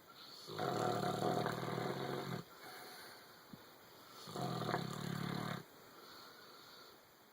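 A sleeping dog snoring: two long, loud snores, the second about four seconds after the first, each followed by a softer breath.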